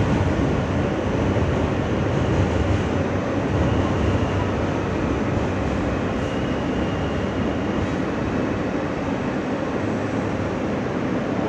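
Steady rumble and hiss inside an R160 subway car as it stops at a station, with faint thin whines about midway.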